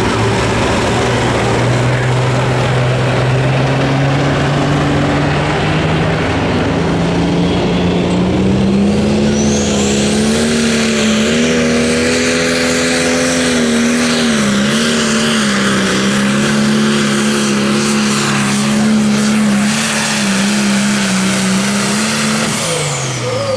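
Turbocharged diesel engine of a Light Pro Stock pulling tractor running at full throttle through a pull. The engine note climbs steadily for about ten seconds as a high turbo whine rises, then holds and wavers under load. Near the end the throttle is cut and the engine and turbo wind down.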